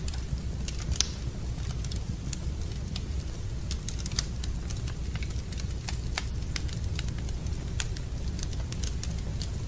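Wood fire in a fireplace crackling, with frequent irregular sharp pops over a steady low rumble; one pop about a second in is louder than the rest.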